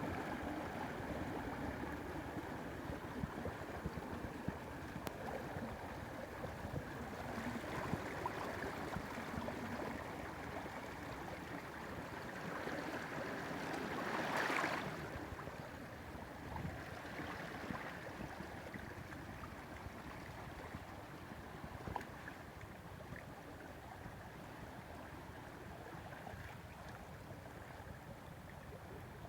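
Flowing water: a steady rush of a stream, swelling briefly about halfway through.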